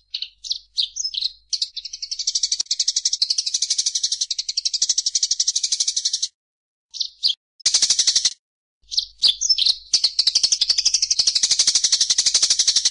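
Songbird singing high-pitched, fast rolling trills, broken by short separate chirps near the start and about halfway through, from a recording made to teach competition birds their song.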